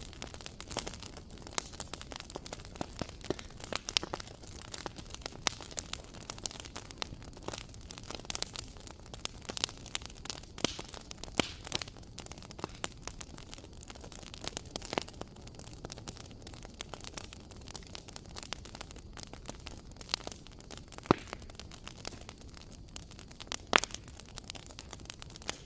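Wood fire in a fireplace crackling steadily over a low hiss, with irregular pops and a few sharper snaps.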